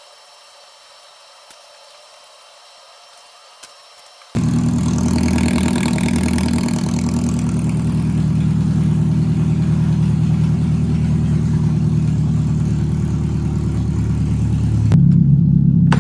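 Faint hiss, then about four seconds in a car engine suddenly comes in and runs loudly and steadily with a strong low note; near the end its sound shifts abruptly, lower and fuller. The car's exhaust has been rerouted: the original outlet is blocked off and a new one opened.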